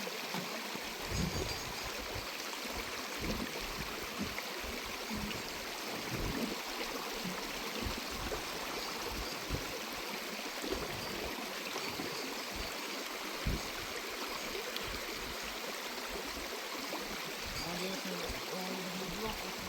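Running water of a stream, a steady rushing, with frequent dull low knocks underneath.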